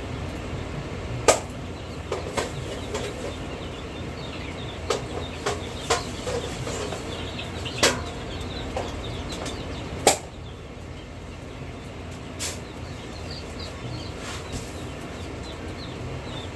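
Chickens flapping their wings in short, sharp bursts, about nine of them scattered through the first dozen seconds, with soft clucking and peeping in between over a steady low hum.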